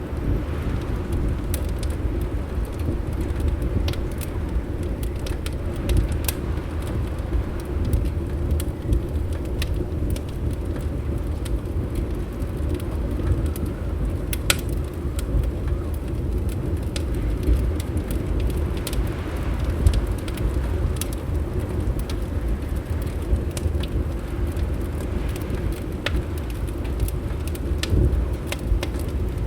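Wood fire crackling, with scattered sharp pops at irregular intervals, over a steady low rumble.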